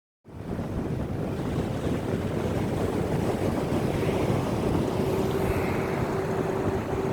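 Wind rumbling on the microphone over sea noise, with a steady hum, such as a boat engine's, coming in about four seconds in.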